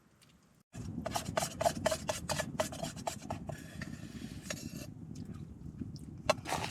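A spoon scraping and clinking against a bowl while the last of the oatmeal is scooped out: a quick run of strokes, about four a second, then a longer scrape and a few more strokes near the end. Under it, a steady low rushing noise starts suddenly about a second in.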